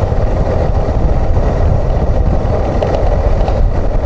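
Suzuki XF650 single-cylinder motorcycle engine running steadily while riding, heard as a continuous low rumble with road and wind noise.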